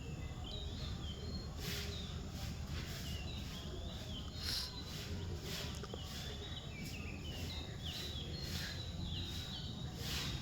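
Small birds chirping repeatedly in short quick calls, over a steady low rumble and repeated short hissing rushes.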